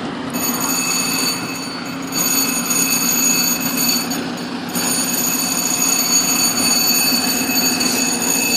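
A fire engine's engine running loud and steady as the rig pulls out. A high-pitched ringing tone sits over it and drops out briefly about a second in and again about four seconds in.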